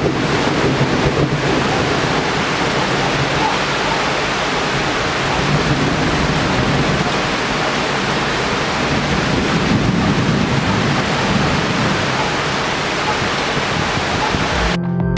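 Steady, heavy tropical rain pouring down in a thunderstorm, an even rushing hiss. It cuts off suddenly near the end as music begins.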